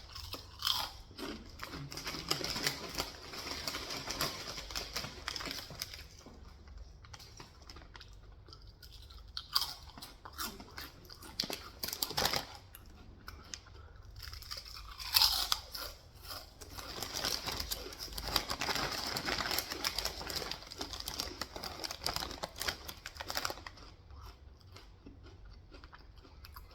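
Close-miked chewing and crunching of leftover pizza, in three long stretches of crackly bites with quieter pauses between them and a few sharper crunches around 10, 12 and 15 seconds in.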